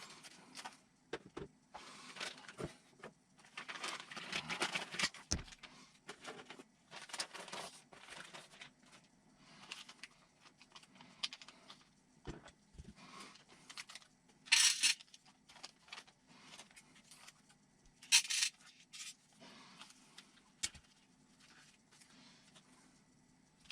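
Small kit parts and a plastic parts bag being handled: scattered light clicks and rattles with crinkling, and two short louder rustles in the second half.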